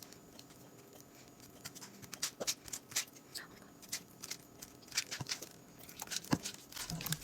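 Glue slime being stirred as contact lens solution activates it: irregular wet, sticky clicks and smacks, growing busier from about two seconds in.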